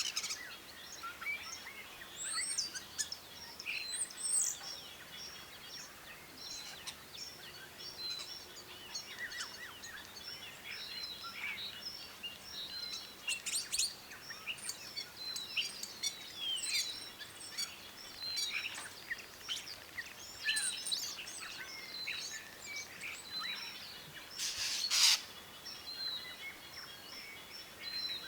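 Several birds chirping and calling over one another, with short rising and falling notes and a note repeated again and again. A brief loud burst of noise cuts in near the end.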